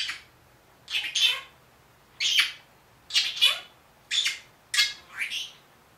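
Senegal parrot squawking: a string of short, sharp, high-pitched calls about one a second, some in quick pairs, several sliding down in pitch.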